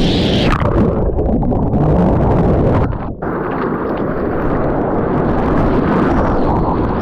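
Heavy wind buffeting the microphone over the rush of water, as from a boat running out on open water, with a brief dip in the noise about three seconds in.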